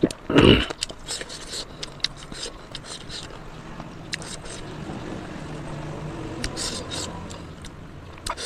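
Close-miked chewing and mouth sounds of someone eating pork: a loud short sound just after the start, then scattered small wet clicks and smacks. A low hum swells and fades in the middle.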